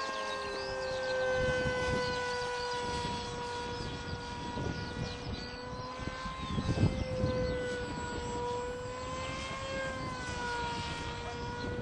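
Electric RC plane in flight: the propeller and homemade six-pole brushless outrunner motor of a Multiplex TwinJet give a steady whine that drifts slightly up and down in pitch. Under it is an uneven low rumble, loudest about seven seconds in.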